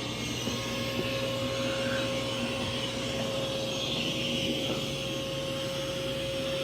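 Mova V50 robot vacuum running on carpet: a steady whir of its suction motor with a constant hum.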